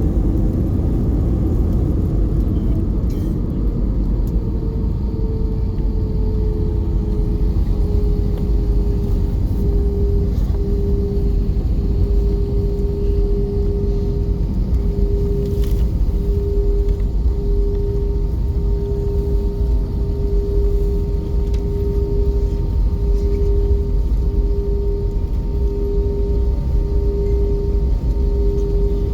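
Airbus A320 cabin noise: a steady, heavy low rumble with an engine tone that drops a little in pitch about four to eight seconds in, then holds steady and pulses gently.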